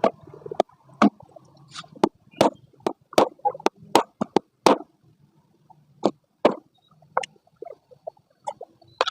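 Sharp knocks and taps, about fifteen at irregular spacing and mostly in the first half, from work on a front-load washing machine drum as new bearings and an oil seal are fitted.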